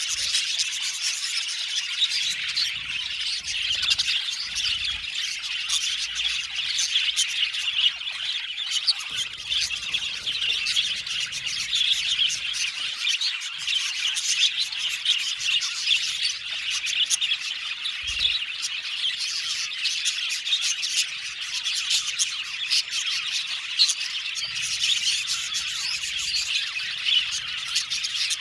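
A flock of budgerigars chirping and chattering together, a dense, continuous mix of many short high calls from a colony.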